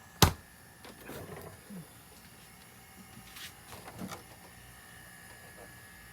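A sharp click, the loudest sound, just after the start, then two short spells of clattering and rustling, about a second in and again around three and a half to four seconds in, over a faint steady high hum.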